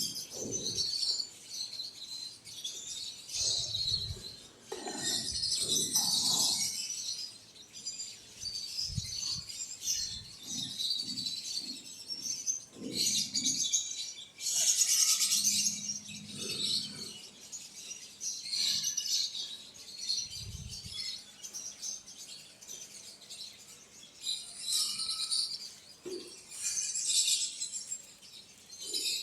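Birds chirping busily, many short high chirps overlapping one another, with a few soft low bumps in between.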